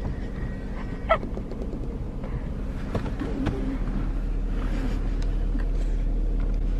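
Steady low hum of a car engine heard from inside the cabin as the car crawls along, with a sharp click and a short falling squeak about a second in and a brief wavering sound a little after the midpoint.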